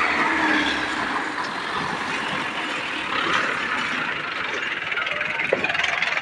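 A tractor engine running, a dense mechanical drone whose low rumble fades about a second in.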